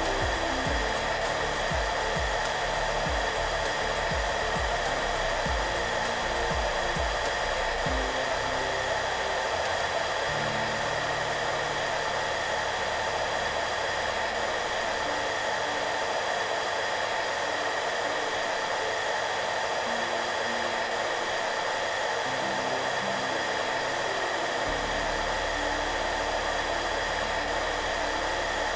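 Hair dryer running steadily: an even blowing hiss with a few faint steady tones in it, unchanging throughout. Soft background music plays low underneath.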